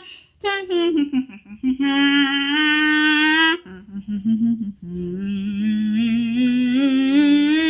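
A person's voice humming without words: a few short notes sliding down, then two long held notes with a wavering pitch.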